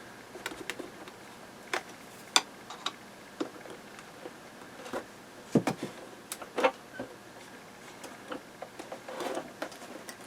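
Scattered light clicks and taps of hands handling a plastic transistor-radio cabinet as its back cover is worked loose, with a few sharper knocks and a short rustle near the end.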